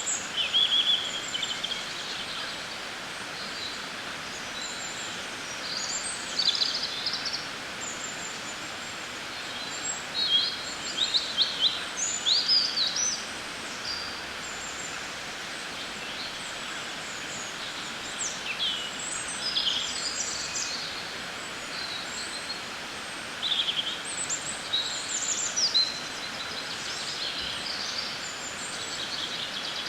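Birds chirping and trilling in short scattered bursts over a steady background hiss: an outdoor nature-sounds ambience.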